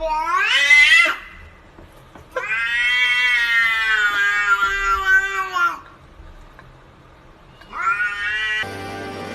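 A cat yowling in three drawn-out calls. The first rises in pitch and breaks off about a second in, the second is held for about three seconds and drops at its end, and a shorter third comes near the end.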